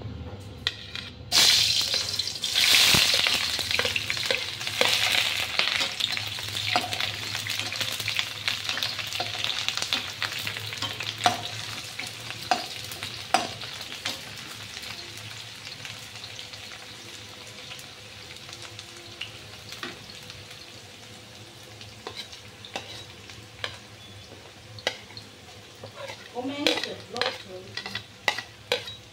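Sliced onions hitting hot oil in a kadai: a sudden loud sizzle about a second in that settles into steadier, quieter frying. A metal spatula stirs and scrapes against the pan throughout, with a quick run of knocks and scrapes near the end.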